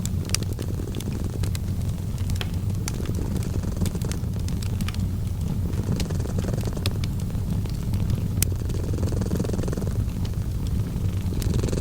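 A cat purring, a steady low rumble that swells and eases with its breaths, mixed with a wood fire crackling in short, sharp pops scattered throughout.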